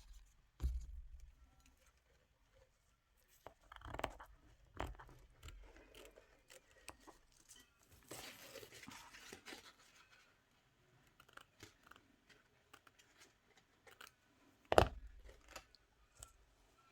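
Paper being handled, rustled and torn or cut, with several knocks on the work table; the loudest knock comes near the end.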